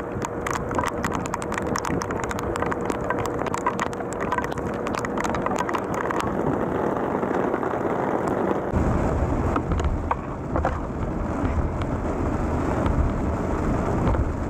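Rain and wind noise on a rain-soaked, muffled microphone, peppered with small ticks of drops. About nine seconds in it switches to the low rumble of a vehicle on the road, with rain on the windshield.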